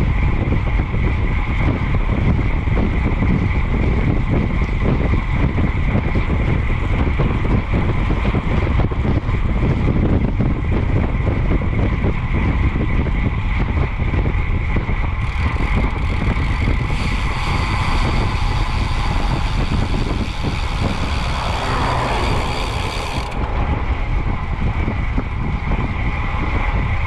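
Wind buffeting the microphone of a moving bicycle, a heavy, unsteady rumble, over steady road and traffic noise. Partway through, a hiss rises and then cuts off suddenly, as from a passing vehicle.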